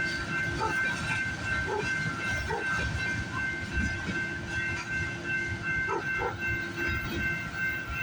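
Freight train cars rolling past: a steady low rumble with scattered wheel clicks over the rail joints, and a steady high-pitched tone held above it throughout.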